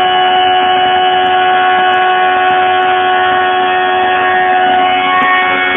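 Motorcycle engine held wide open at steady high revs, a loud, even high-pitched wail that doesn't change in pitch.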